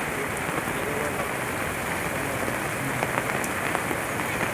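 Heavy monsoon rain falling steadily, an even hiss with scattered sharp drop ticks.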